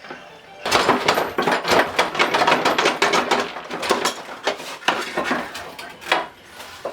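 Rapid, busy clattering and knocking of hard objects being handled and struck, as when tinkering with parts to build something. It starts about half a second in and stops shortly before the end.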